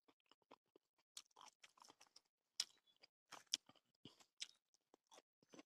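Close-miked chewing: a mouthful of rice and pork eaten by hand, with irregular soft crunches, smacks and mouth clicks.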